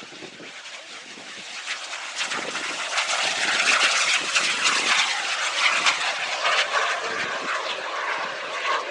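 SubSonex JSX-2 microjet's small turbojet engine in flight: jet noise that swells from about two seconds in, is loudest around the middle and eases a little near the end as the jet passes.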